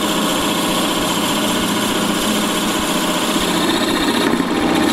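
A power drill running steadily as it bores a 3/4-inch hole through a walnut blank.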